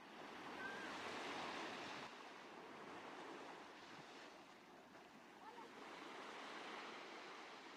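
Faint ocean surf washing in, swelling and easing twice.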